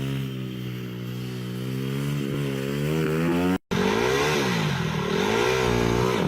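Minibike engine running fairly steadily, then, after a brief break just past halfway, revving up and down repeatedly as the throttle is opened and closed.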